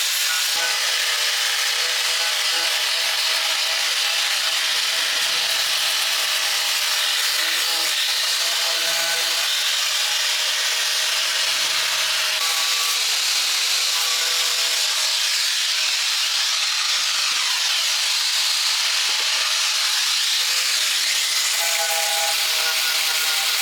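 A power tool running steadily with a loud hiss and faint shifting whining tones, without pause.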